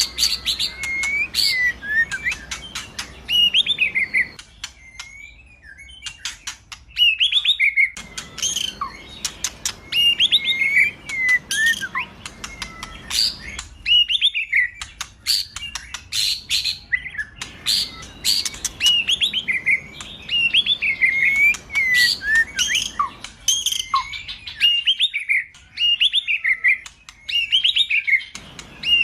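Male white-rumped shama (murai batu) singing vigorously: a dense stream of sharp clicks mixed with varied whistled phrases, coming in quick bursts with short breaks.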